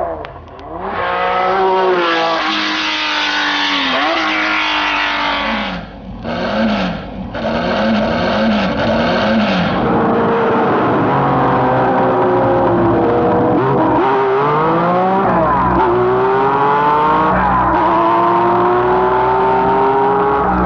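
Racing car engine at high revs, the pitch climbing and dropping repeatedly through gear changes. About ten seconds in it settles to a lower, steadier note, with a few more shifts around fifteen seconds in.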